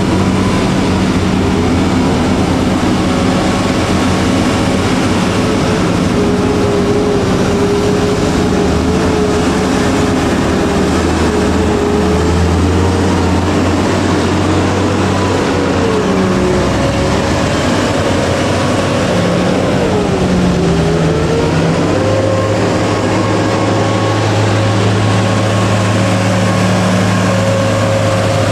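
Hitachi EX2600 hydraulic mining excavator's diesel engine and hydraulics running loudly and steadily under working load, the engine note dipping and recovering twice in the second half.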